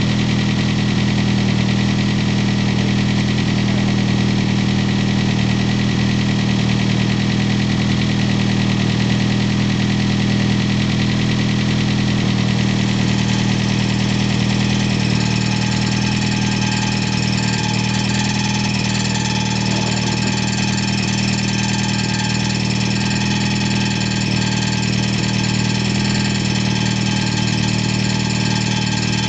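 Freshly rebuilt Ford 2.3-litre turbo four-cylinder idling steadily on its first run, with a rattle that the owner puts down to the automatic transmission's torque converter. A steady higher whine joins about halfway through.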